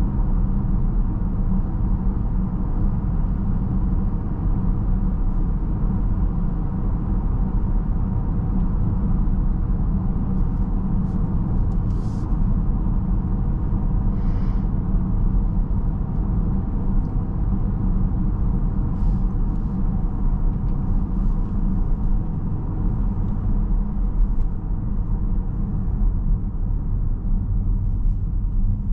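Steady low road and tyre rumble of a Mercedes-Benz GLB350 driving, heard from inside the cabin. A few faint brief clicks and a short faint tone come about halfway through.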